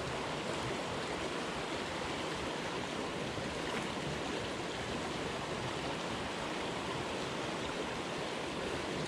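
Jungle headwater stream flowing: a steady, even rush of water.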